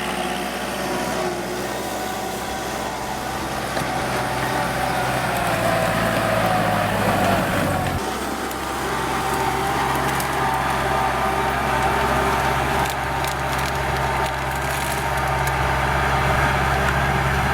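Kubota L4708SP tractor's diesel engine running steadily under load while ploughing, its note dropping to a lower, steadier pitch about halfway through.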